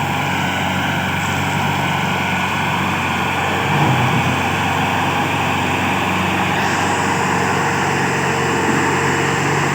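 Massey Ferguson 385 tractor's diesel engine running steadily and loudly, with a slight swell about four seconds in.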